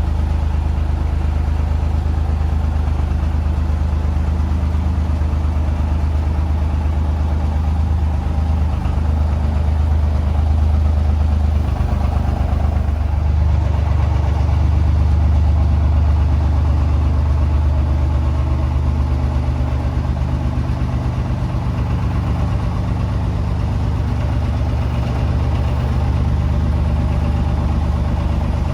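Tractor engine running steadily at low revs with a deep hum, getting a little louder for several seconds in the middle as the tractor is manoeuvred.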